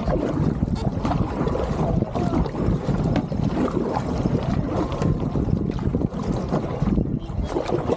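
Wind buffeting the microphone over water sloshing around a small boat, with a few brief knocks.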